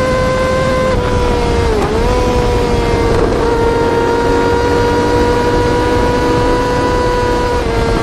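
Yamaha R6 inline-four sportbike engine held at a high, steady pitch, dipping briefly and recovering about two seconds in.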